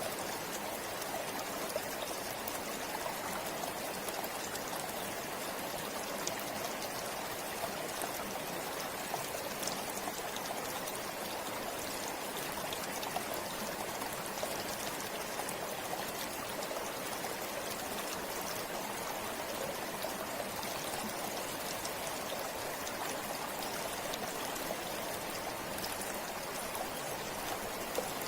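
A forest river flowing steadily, its rushing water dotted with small splashes and drips.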